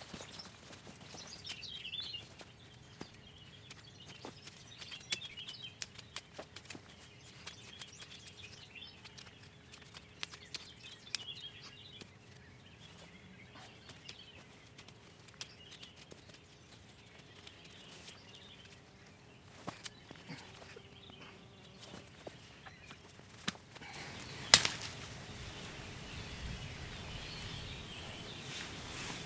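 Scattered small clicks and scrapes of hand-digging in garden soil to free a large weed root, with birds chirping on and off in the first half. One sharp knock about 24 seconds in, after which a steadier rustling noise follows.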